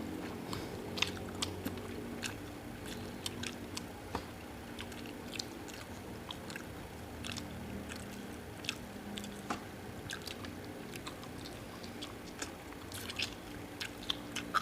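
Close-miked eating: chewing and biting on food, with small irregular wet clicks and crunches.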